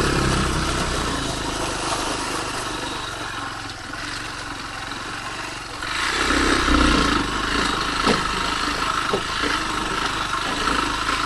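KTR 150 motorcycle's engine running at low speed, with road and wind noise; it grows louder about six seconds in.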